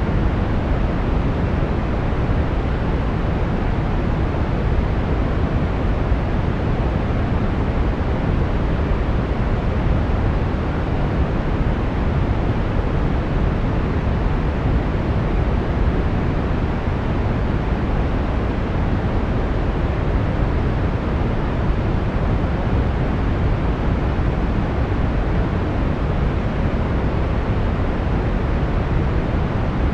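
Brown noise: a steady, unbroken deep rushing hiss, strongest in the bass and thinning toward the treble, with no change in level.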